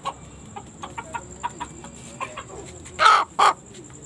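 Chickens clucking with short soft calls, then two loud harsh squawks in quick succession about three seconds in.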